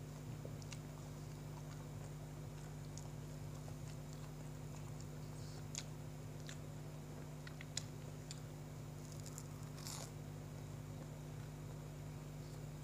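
A mouthful of soft bread sandwich being chewed with the mouth closed: faint, scattered wet clicks and smacks, a few of them sharper, over a steady low hum.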